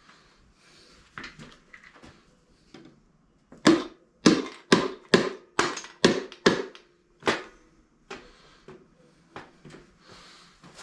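About eight sharp knocks in a row, roughly two a second, through the middle, as if a hammer is striking parts of a Briggs & Stratton lawn mower engine to persuade them loose during teardown. Quieter clicks and clinks of handled tools and parts come before and after.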